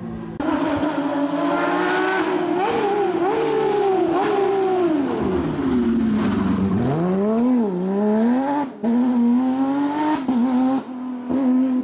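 Porsche competition car's flat-six engine driven hard, its pitch climbing and dropping through the gears, sinking low about six seconds in as the car slows for a corner, then rising again as it accelerates away.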